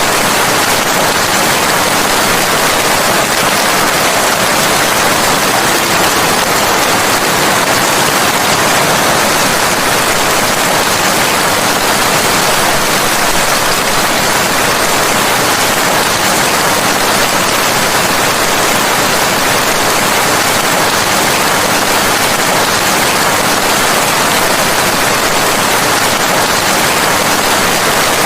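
Steady heavy rain, a dense even hiss with no separate drops or thunder standing out.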